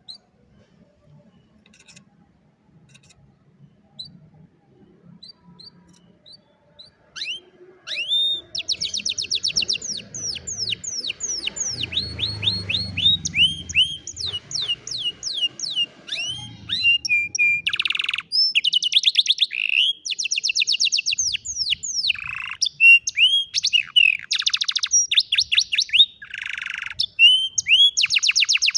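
Domestic canary singing: a few soft, scattered chirps, then about eight seconds in a long run of song made of fast trills of rapidly repeated notes, switching from one trill to the next every second or two.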